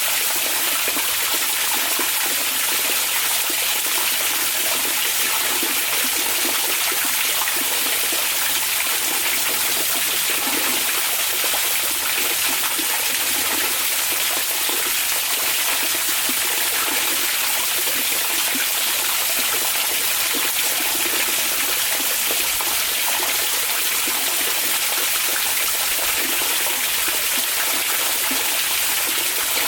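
Hot spring water running steadily: an even, unbroken rush of water that does not change.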